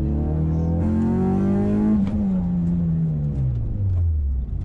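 Nissan SR20VE 2.0-litre four-cylinder engine in a 1994 Sentra SE-R, heard from inside the cabin: revs climb for about two seconds under acceleration, then fall away steadily, with a sharp click at the peak.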